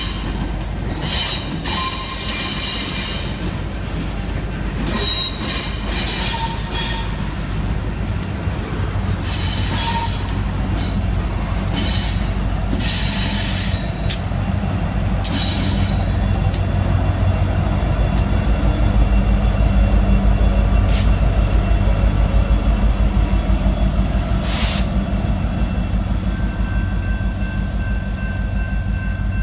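Freight train rolling past with its wheels squealing against the rails in shrill bursts during the first several seconds. Then the BNSF ES44DC and SD70ACe diesel locomotives, running as mid-train distributed power, rumble by close, loudest about two-thirds of the way in.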